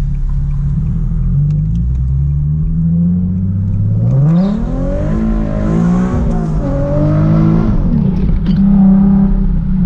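Nissan 370Z's 3.7-litre V6 through a straight-piped exhaust, pulling with the revs slowly climbing. About four seconds in it revs up sharply and stays high, wavering, for several seconds, then drops back near the end.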